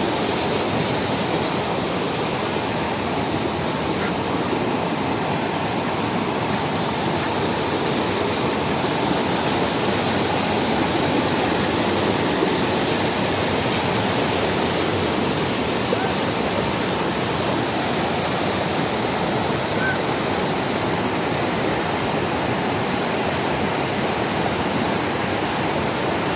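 Steady rush of a flood-swollen river, fast high water running loud and unbroken.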